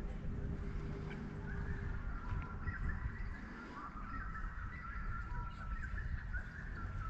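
Birds calling, with a long run of held, stepping notes from about a second and a half in to near the end, over a low rumble of wind on the microphone.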